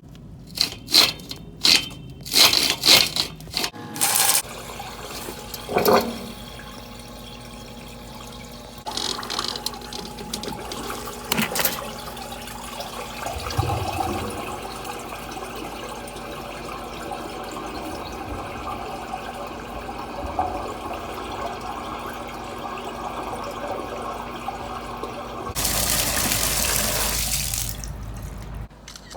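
Water running in plumbing pipework as a steady hiss, with a louder rush of water for a couple of seconds near the end. Several sharp knocks sound in the first few seconds.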